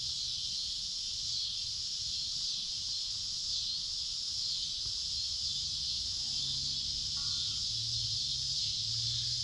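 Steady chorus of insects: a continuous high-pitched shrill drone.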